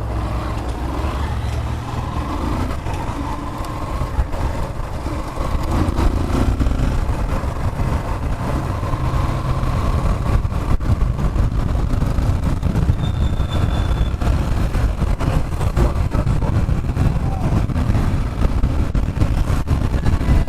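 Motorcycle engine running with a deep, rough rumble that grows louder about five seconds in, with faint voices underneath.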